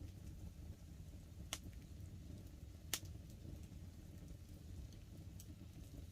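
Wood fire crackling, with two sharp pops about one and a half and three seconds in and a few fainter ticks over a low, steady rumble.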